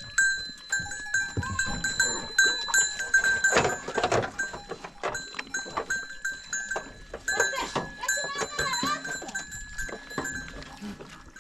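Livestock bells clanking over and over in an irregular jangle, with a louder animal call about four seconds in.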